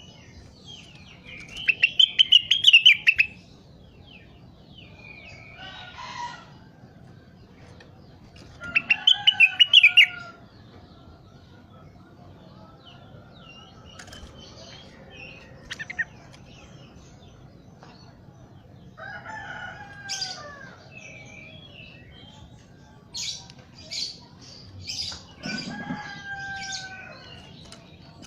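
A rengganis songbird singing: two loud bursts of rapid chattering notes, softer calls in between, and a series of short sharp notes near the end.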